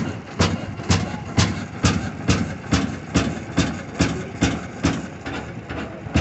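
Slow-running antique gas engine firing a little over twice a second, each sharp exhaust bang evenly spaced.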